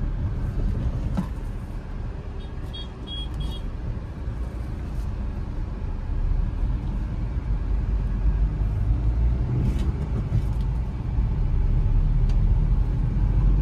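Hyundai i10's 1.2-litre four-cylinder petrol engine running with tyre and road rumble, heard from inside the cabin as the car drives at low speed. The rumble grows louder over the second half.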